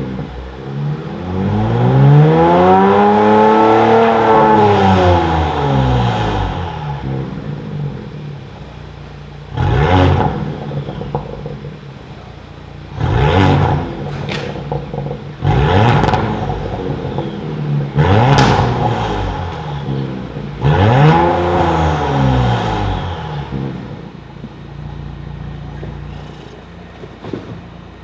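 Genesis G80 Sport 3.5T's twin-turbo V6 sounding through a valved exhaust with a modified mid-pipe that makes it louder. It is revved in one long climb and fall of revs near the start, then in a run of short, sharp blips with the engine settling back to a steady lower note between them.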